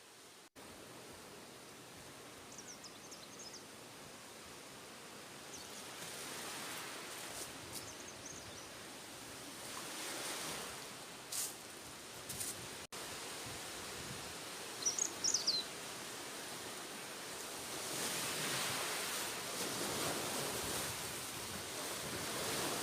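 Wind and surf noise at night on the shore, rising and falling in slow surges. Short high chirps from a night creature come in twice, and a few sharp clicks are heard near the middle.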